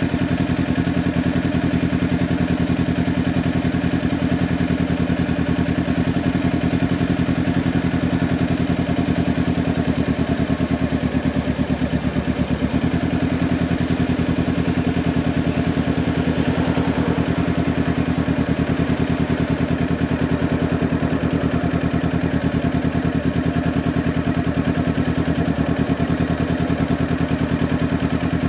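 Kawasaki Ninja 400's parallel-twin engine through a Leo Vince LV10 aftermarket exhaust, running at a steady, unchanging engine speed. A little before halfway the tone briefly changes, then settles back.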